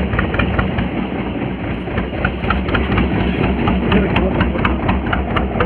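A fishing boat's engine idling steadily, with a run of short sharp ticks over it.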